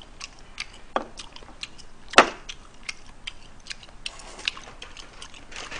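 Close-miked chewing of steamed gooseneck barnacle flesh: a run of small wet mouth clicks, a few a second, with a sharper knock about two seconds in.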